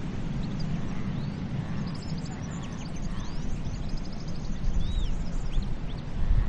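Steady low rumble of sea and wind, with a flock of birds chirping over it: many short high chirps and a few rising and falling whistled calls, busiest in the middle.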